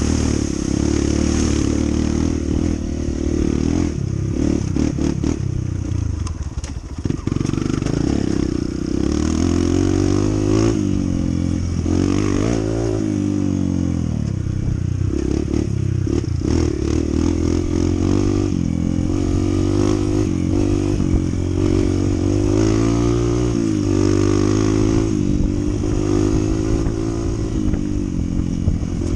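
Honda CT125's small single-cylinder engine running under way, its pitch rising and falling repeatedly with the throttle, with occasional knocks and rattles.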